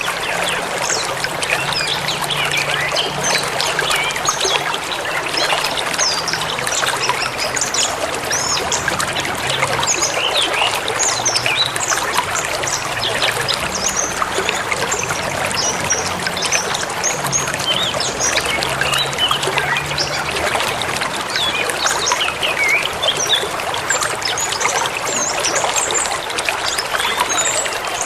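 A forest river running over stones with a steady babbling rush, while small songbirds chirp and twitter over it throughout.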